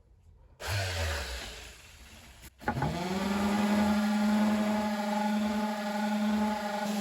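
Small handheld electric power tool: a brief burst of running, then switched on again about two and a half seconds in, spinning up quickly to a steady whine over a hiss.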